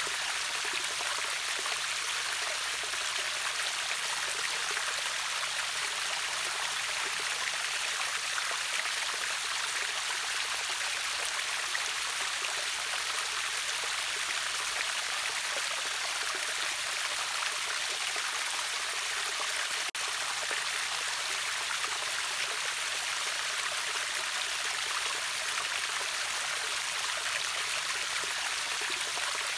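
River waterfall: water rushing and splashing in a steady, unbroken hiss, bright and high with little low rumble.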